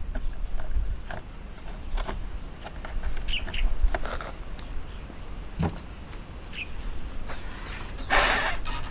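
Insects chirring steadily in the background, with scattered light clicks and taps of hands at work. Near the end comes a short hissing puff, a breath blown at sand in the engine bay.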